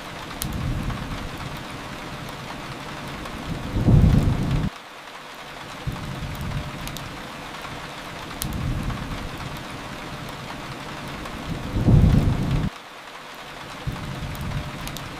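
Steady rain with a low thunder-like rumble that swells twice, about eight seconds apart, each cutting off suddenly, and scattered small pops of a wood fire crackling.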